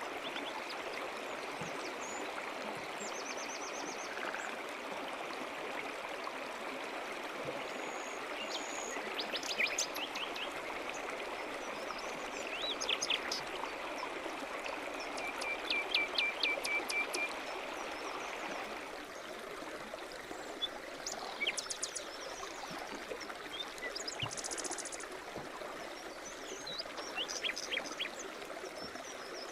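Brook running steadily, with small birds singing over it: scattered chirps and short rapid trills. The water's rush eases slightly about two-thirds of the way through.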